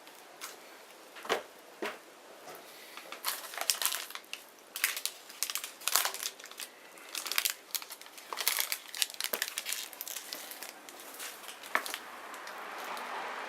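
Small wood bonfire crackling, with clusters of sharp pops and snaps through the middle and a soft rushing hiss swelling near the end.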